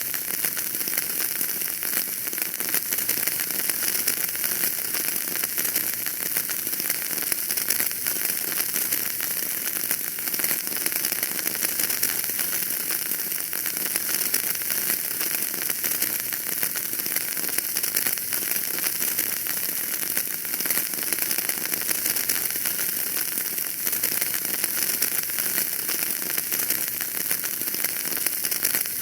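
Wood fire burning in a fireplace, with steady dense crackling and hissing.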